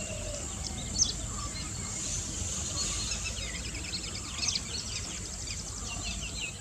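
Outdoor field ambience: many small birds chirping and twittering in short, quick notes over a steady high hiss and a low rumble.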